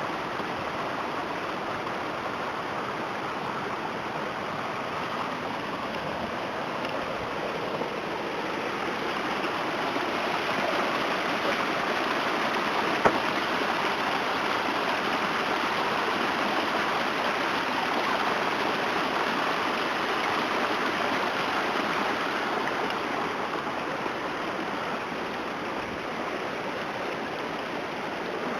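Floodwater rushing and running as a steady noise, swelling somewhat in the middle, with a single sharp click about halfway through.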